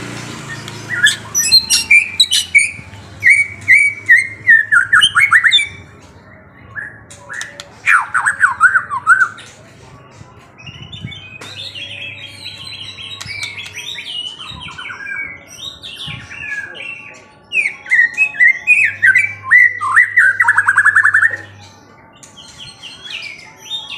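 A songbird singing in loud phrases of quick chirps and trills, three main bursts with softer twittering between them.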